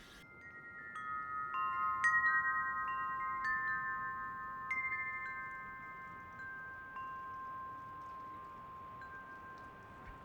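Wind chimes ringing: metal tubes struck at irregular moments, each clear tone ringing on for several seconds and overlapping the next. The strikes come thickest in the first half and thin out toward the end.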